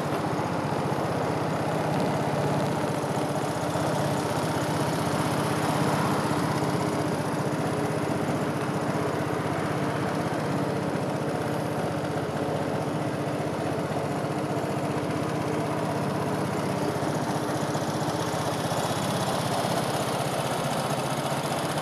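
2017 Vespa Primavera 125's single-cylinder four-stroke engine idling steadily.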